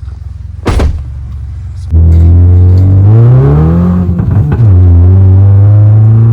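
Remapped Maruti Suzuki Baleno engine and exhaust pulling hard under acceleration: a single sharp bang under a second in, then the engine note comes in loud at about two seconds and climbs steeply. About four and a half seconds in the revs drop at a gear change with a brief crackle, then climb again more slowly.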